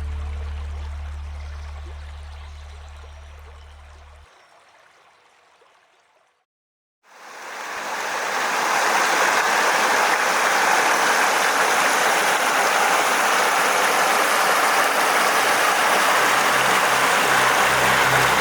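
A song fades out, and after a brief silence a mountain creek comes in, rushing steadily. A low hum joins it near the end.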